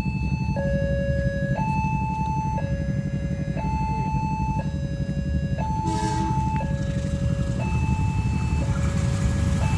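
Railway level-crossing warning alarm sounding its two alternating tones, switching about once a second, over a low steady rumble. A short horn blast sounds about six seconds in.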